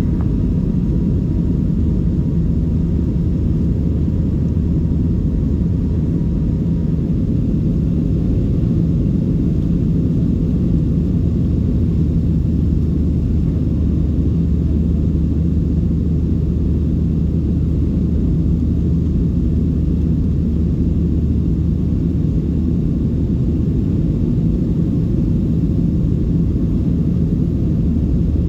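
Steady low rumble of a Boeing 737-700's CFM56 engines and airflow heard from inside the passenger cabin, with a faint steady tone that fades out in the first several seconds.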